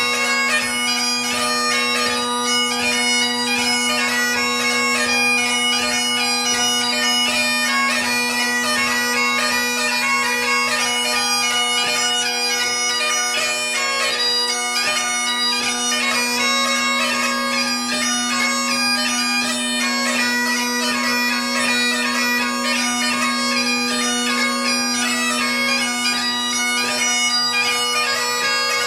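Great Highland bagpipe playing a light-music tune: the drones sound one steady, unbroken chord under the chanter's fast melody with crisp grace-note ornaments.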